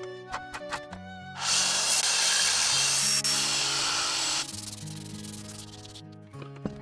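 A few light clicks, then loud abrasive sanding for about three seconds, over background music.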